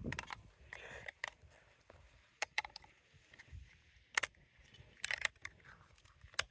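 Scattered sharp plastic clicks and taps, with faint scuffing between them, from handling and prying at an air-conditioner remote control's casing.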